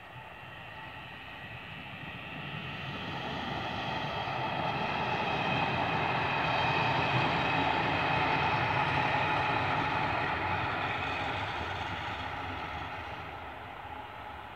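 Two-car diesel railcar passing by. Its engine and running noise grow louder, peak in the middle, then fade as it moves away.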